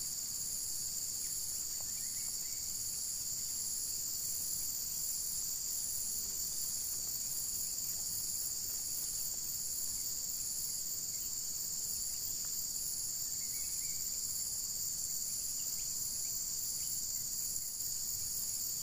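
Steady high-pitched insect chorus, crickets or cicadas, with one shrill strand pulsing a little more than once a second.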